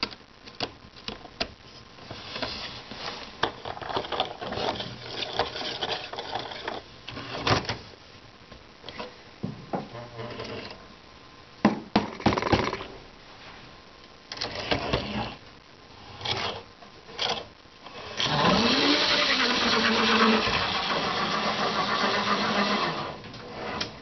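HO scale model locomotive, a small Mantua 0-4-0 booster engine, running on a layout with its cars, its motor whirring and the wheels clicking and clattering over the track. The motor sound gets much louder for several seconds near the end. The engine runs a bit jumpy.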